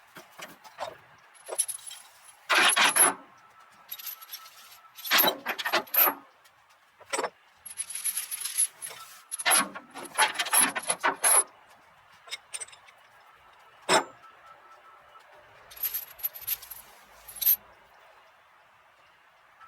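Steel tie-down chains being handled, rattling and clinking in repeated bursts, with one sharp knock about fourteen seconds in.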